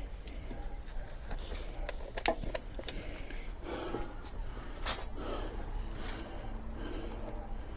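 A person breathing hard and sniffing, tired out from exertion, with a few sharp clicks and knocks, the loudest about two seconds in and another about five seconds in.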